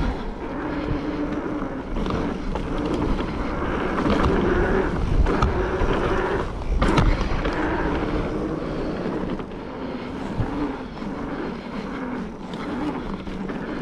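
Mountain bike rolling fast down a dirt trail: a steady tyre-and-wind rush with a wavering buzz that rises and falls in pitch. There is one sharp clack about seven seconds in.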